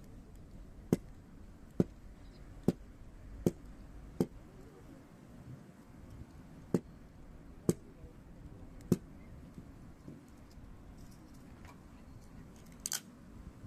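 Hardwood fire crackling: a run of sharp pops, about one a second for the first nine seconds, then a softer double pop near the end, over a low steady hiss of burning.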